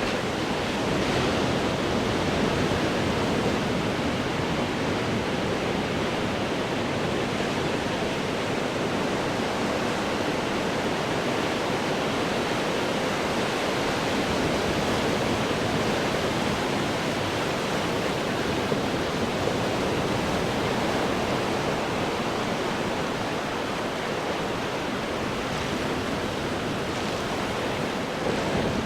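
Ocean waves breaking on rocks: a steady rushing wash of surf that swells a little about a second in and again near the end.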